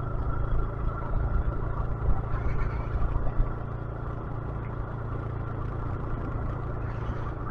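A 125cc motorcycle engine running steadily while the bike is ridden, heard from on the bike with wind rumbling on the microphone. The rumble is gustier in the first few seconds and evens out after that.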